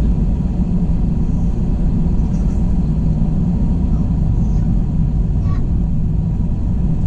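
Steady low rumble inside the cabin of an Airbus A321 on the ground before takeoff: the jet engines and airframe running evenly, with a constant hum and no clear changes.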